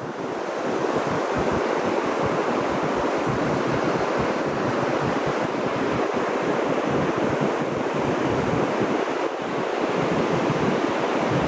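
Ocean surf washing onto a beach, a steady rush of breaking waves, with some wind buffeting the microphone.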